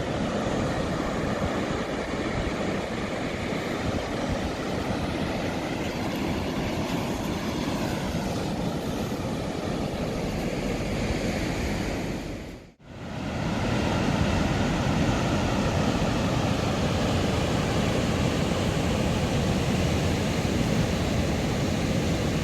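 Atlantic surf breaking on a beach, a steady rush of waves. The sound drops out for a moment about halfway through.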